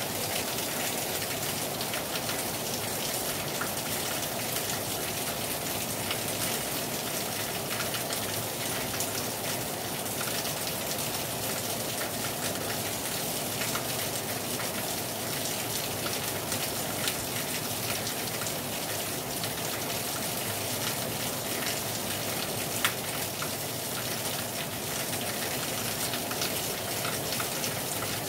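Rain falling hard on a terrace: a steady hiss of rain with many individual drops ticking on the surface, and now and then a louder single drop hit.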